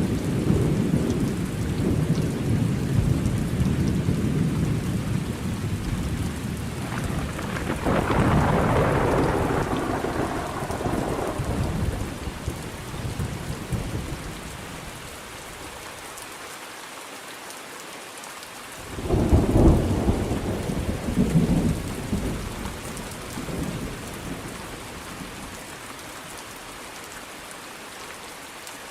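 Thunderstorm: steady rain with long, rolling thunder. One low rumble carries on through the first half, swelling brighter around a third of the way in, and after a quieter lull a second, sudden thunderclap breaks about two-thirds in and rolls away in waves.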